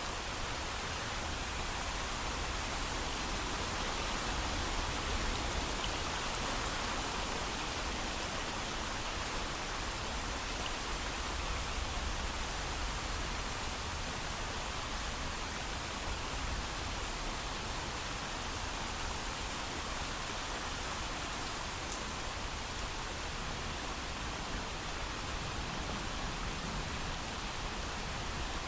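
Steady heavy rain, an even hiss of falling water with no thunder.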